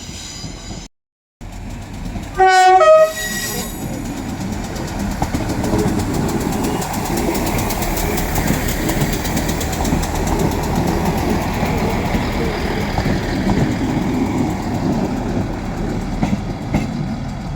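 A train sounds a short, loud two-tone horn blast about two and a half seconds in, then runs past with a steady rumble of wheels on the track and some clatter.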